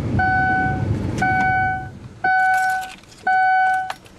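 2005 Ford Taurus SE's electronic warning chime sounding four times, about once a second, over a low rumble that stops about two seconds in.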